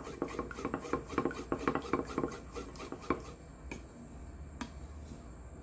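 A spoon stirring a cornstarch and water mixture in a container, with quick repeated clinks and scrapes. After about two seconds the strokes thin out to a few scattered clicks as the starch finishes dissolving.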